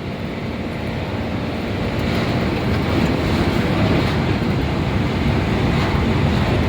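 Nissan Diesel UD440 truck's diesel engine pulling in seventh gear, heard from inside the cab with road and wind noise; the rumble grows a little louder over the first few seconds.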